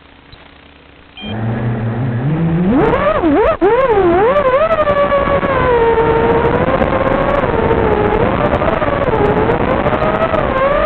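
Brushless motors of an FPV racing quadcopter spinning up about a second in, then a loud whine that climbs and wavers in pitch with the throttle as the quad takes off and flies.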